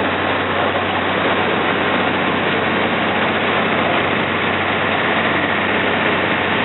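A slow boat's engine running steadily: a constant low hum under a loud, even rush of noise.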